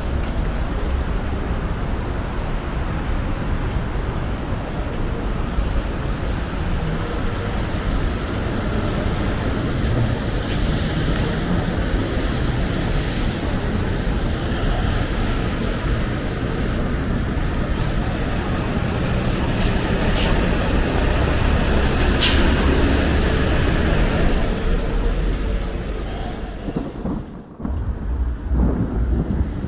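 Thunder rumbling low over steady rain, swelling about two-thirds of the way through and dropping away briefly near the end, with a couple of sharp clicks.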